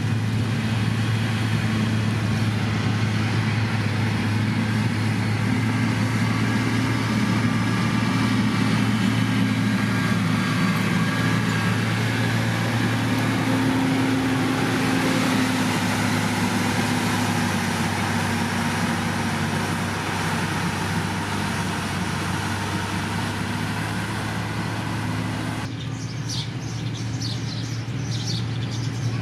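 Heavy diesel engine of a road construction machine (motor grader or road roller) running steadily with a low, even hum and hiss. Near the end the sound changes abruptly as the hiss drops away.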